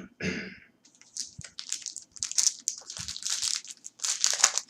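Foil trading-card pack wrapper being torn open and crinkled in the hands, an irregular run of crackling and rustling that starts about a second in.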